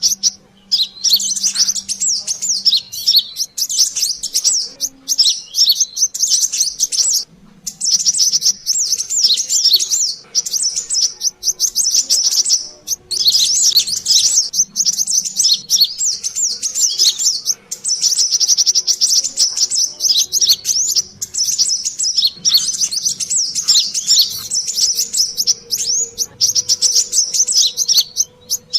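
Lure-call recording of brown-throated sunbirds (kolibri kelapa, or sogon): rapid, busy, high-pitched chirping and twittering in bursts of a second or two with short breaks between them.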